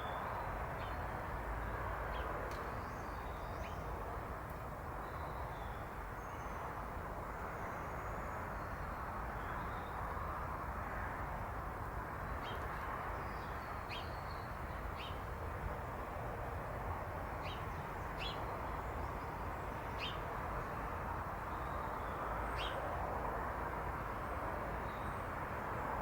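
Garden birds chirping: short, high calls scattered here and there, coming more often in the second half, over a steady background noise.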